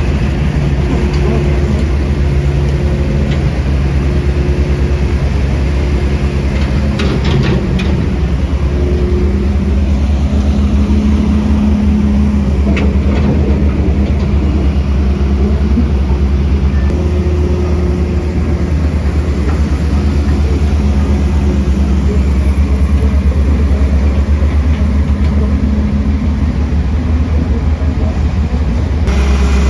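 Diesel engines of heavy earthmoving machines running steadily, the engine note shifting about eight seconds in, with a few sharp metallic knocks around then.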